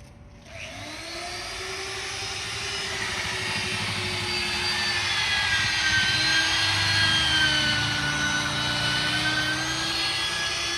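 A motor starts up about half a second in, rises briefly in pitch, then runs steadily with a high whine.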